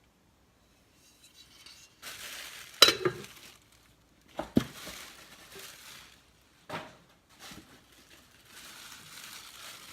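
Cookware being unpacked and handled: pots, pans and lids knocking as they are picked up and set down, amid rustling of packaging. Three sharp knocks, the loudest about three seconds in.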